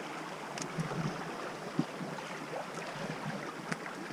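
Swollen creek running with spring snowmelt, a steady rush of water, with a few faint knocks.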